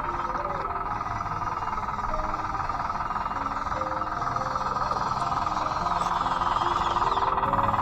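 Steady whine of a converted Bruder D5 RC bulldozer's electric drive, under soft background music.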